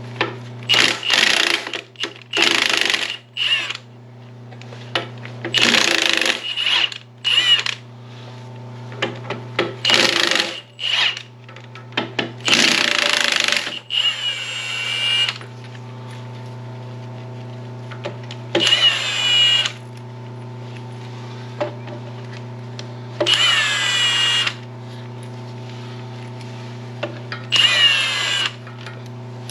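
Handheld power tool backing out bolts, run in repeated short bursts of one to two seconds. Several bursts end with the motor's pitch falling as it spins down. A steady low hum runs underneath.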